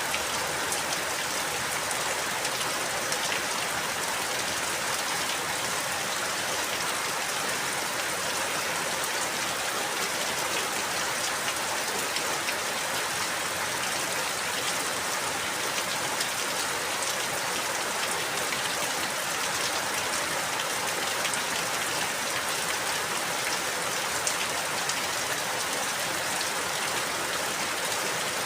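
Steady rainfall, with many small drops pattering on a surface.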